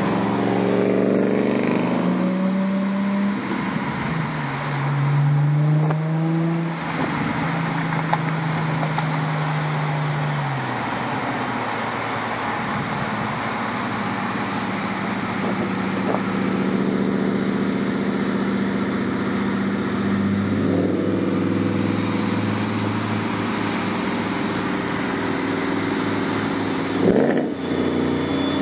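Audi S5 with an aftermarket exhaust, heard while driving alongside: the engine note drops and holds, steps lower about ten seconds in, cruises steadily, then rises in a short rev near the end, over heavy wind and road noise.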